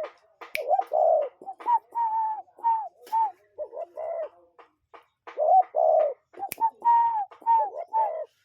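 Birds cooing in dense runs of short, arched notes, several overlapping one another, with a brief pause a little past halfway and a few sharp clicks among them.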